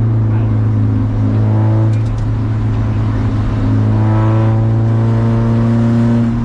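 Race car engine running under load at fairly steady revs, heard over a constant low drone. The engine note falls back about two seconds in and pulls strongly again from about four seconds in.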